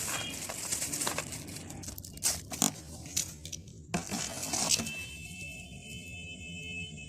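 Plastic wrapping crinkling, with several sharp knocks and clicks as items are handled. About five seconds in, soft background music takes over.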